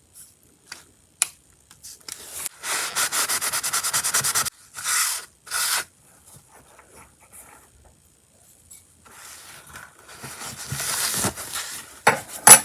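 A small part of an HO scale boxcar kit being wiped clean of rust or dirt: a quick run of back-and-forth rubbing strokes, then two slower strokes. After a pause the rubbing starts again, and a few sharp clicks come near the end.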